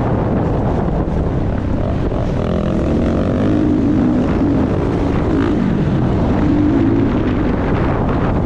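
Motocross bike engine running under heavy wind noise, its pitch rising and falling through the middle of the stretch.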